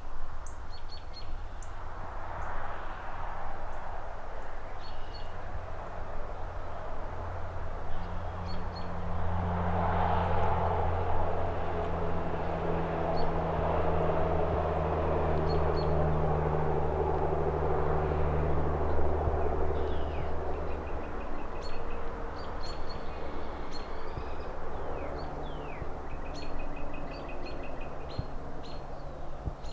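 City traffic ambience: a steady wash of road noise, with a vehicle's low engine hum swelling past through the middle. Small birds chirp now and then, more often near the end.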